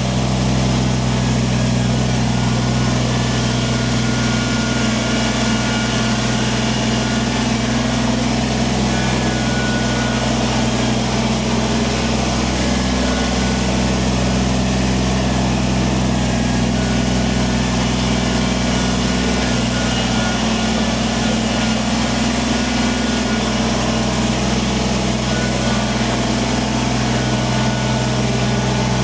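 Kubota tractor's diesel engine running steadily while grading stone with the loader, with no revving or change in pitch.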